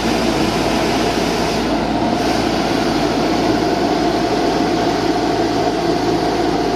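Steady machine noise: an engine or motor running continuously with a constant hum and no change in pitch.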